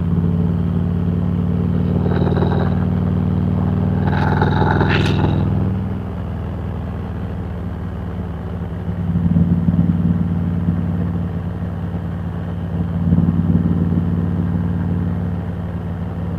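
Harley-Davidson Road Glide Special's V-twin engine running under way, its note swelling twice as the throttle opens, about nine and thirteen seconds in.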